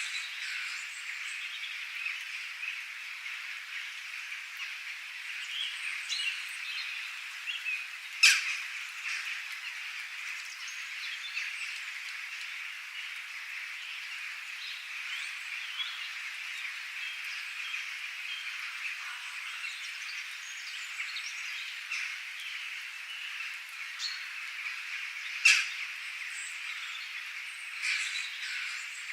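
Steady outdoor chorus of frogs and birds: a dense background of calling, scattered small chirps, and two sharp, loud calls, one about eight seconds in and one near the end.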